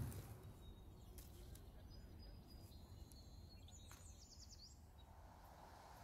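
Faint outdoor birdsong over near silence: a few thin, high chirps, then a short quick trill around the middle.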